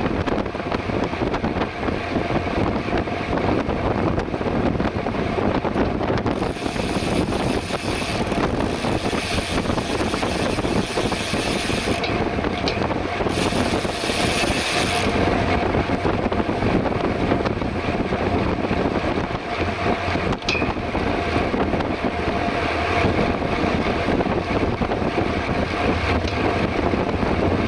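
Wind rushing over the microphone of a camera on a bicycle riding at speed, a steady rough noise. A brighter hiss joins for several seconds in the middle.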